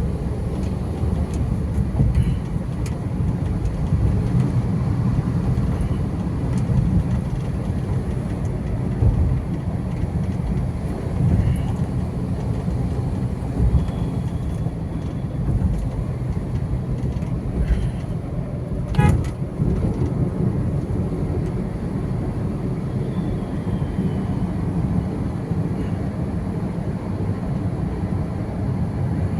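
Steady low rumble of vehicle and road noise from moving through city traffic, with one short sharp knock about two-thirds of the way through.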